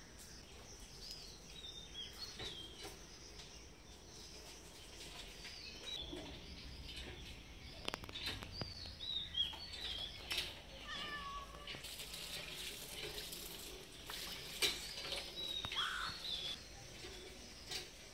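Small birds chirping over and over in the background, with a cat meowing briefly a couple of times.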